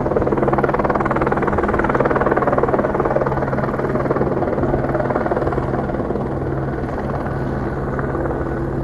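Helicopter flying overhead: a steady, rapid rotor chop over a low engine drone, slightly louder in the first few seconds.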